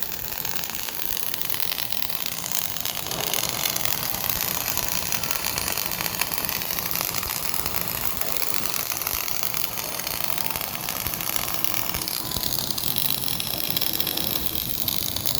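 Flux-cored arc welding arc crackling and sizzling steadily as a bead is laid.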